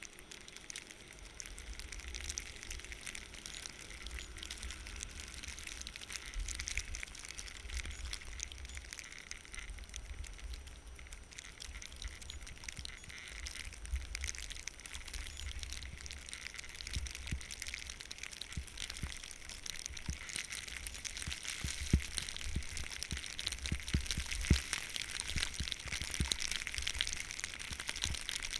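Skis sliding and scraping over snow in a steady hiss, with wind buffeting the microphone in low rumbles. Two sharper knocks come in the last third.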